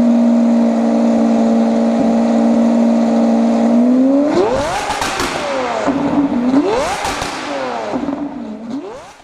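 Lamborghini Aventador V12 through an aftermarket valvetronic exhaust, holding steady high revs for about four seconds, then revved up sharply and let fall twice in a row before the sound dies away near the end.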